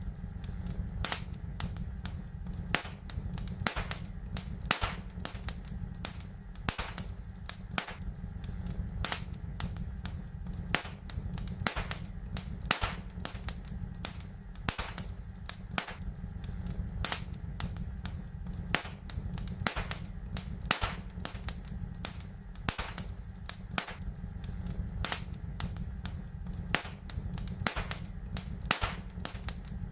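Wood fire in a fireplace crackling, with frequent sharp, irregular pops and snaps over a steady low rumble.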